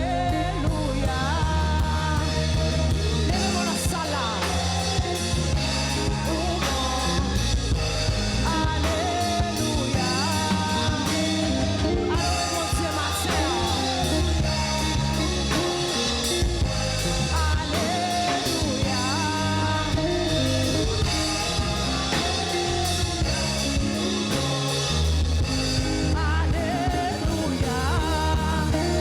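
Live church worship band playing a song, with singing over bass, drum kit and guitar.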